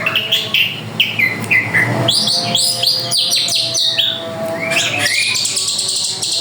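A drongo singing vigorously: a quick, unbroken run of short whistled notes, most sliding downward, mixed with sharper chirps.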